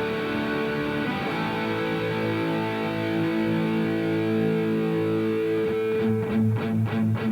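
Electric guitar played through a Revv G3 preamp/distortion pedal on its blue channel: held, distorted chords ringing out, then quick repeated chugging strokes from about six seconds in.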